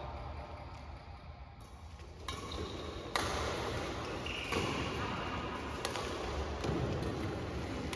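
Badminton rackets hitting a shuttlecock in a rally: sharp hits roughly a second apart, starting about two seconds in, with a brief high squeak about four seconds in.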